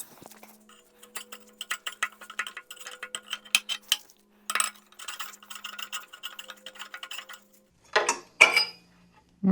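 Ratchet clicking in quick, irregular runs as the water pump pulley bolts are worked loose on a Ford 300 inline-six, with two louder knocks near the end.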